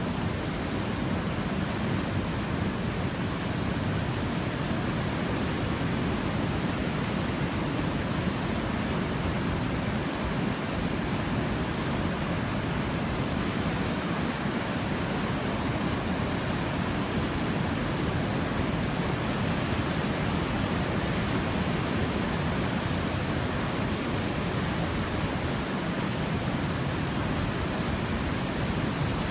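Strong wind and typhoon-driven surf at a beach, a steady rushing noise with no separate wave crashes standing out.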